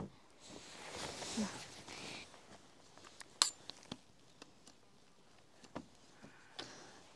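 Quiet footsteps on trail steps: a soft rustle in the first couple of seconds, then scattered sharp clicks and taps.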